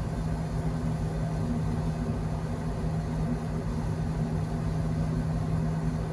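Steady low drone of a ship's engines and machinery, with a constant hum.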